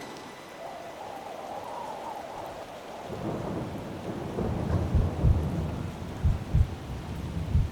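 Thunderstorm: steady rain with thunder rumbling in from about three seconds in, growing, with several loud low booms in the second half.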